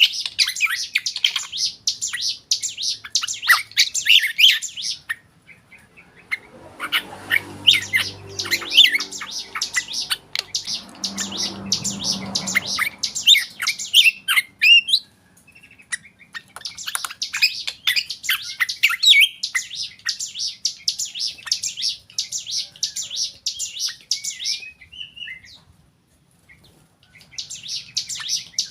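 Black drongo singing in fast, chattering phrases of sharp notes, with short pauses between bursts.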